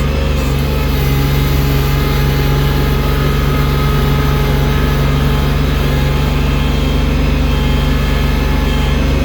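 Engine of a snow-clearing machine fitted with a loader bucket, running steadily at a constant pitch.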